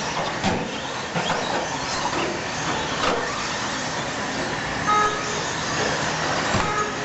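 Radio-controlled stadium trucks racing on a dirt track: several small motors whine, rising and falling in pitch over a continuous rush of tyres and dirt.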